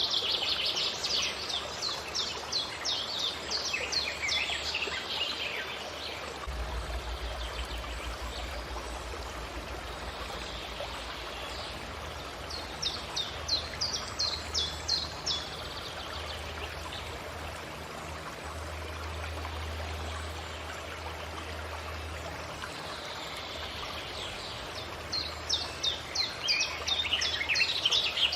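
A songbird sings three phrases, near the start, in the middle and near the end, each a quick run of high notes lasting a few seconds that falls in pitch. A steady rushing background noise runs beneath it.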